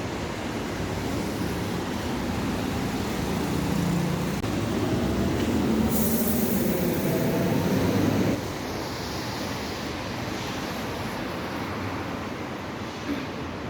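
Vehicle noise that grows louder, with a high hiss joining about six seconds in, then drops off abruptly a little after eight seconds to a lower, steady traffic hum.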